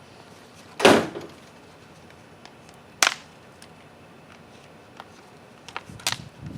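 Three sharp knocks from working a root-bound plant free of its pot. The loudest comes about a second in and rings briefly, a sharper one follows two seconds later, and a smaller one near the end, with light handling ticks between them.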